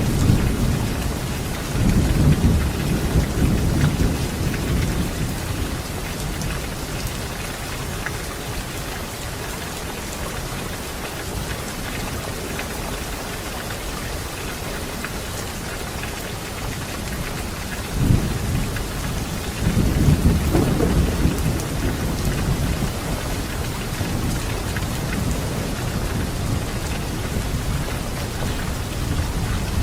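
Steady rain falling, with thunder rumbling twice: once at the start and again about two-thirds of the way through, the second beginning with a sudden crack and rolling on for several seconds.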